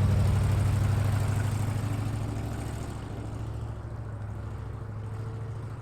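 Muscle car's engine running at low revs through its exhaust, a low pulsing note that is loudest at the start and fades over the next few seconds as the car drives away.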